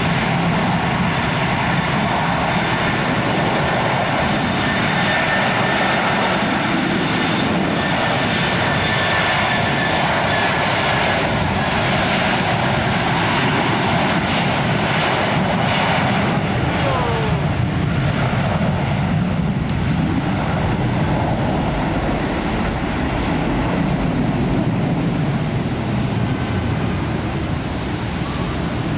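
Jet airliner engines running, a steady loud rush with a faint high whine through the first half. A short falling tone sounds past the middle.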